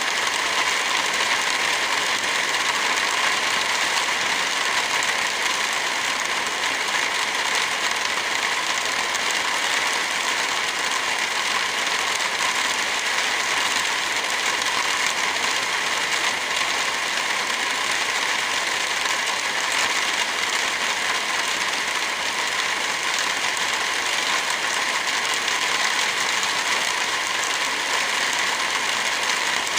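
Heavy rain falling as a steady, dense hiss with no single drops or thunder standing out.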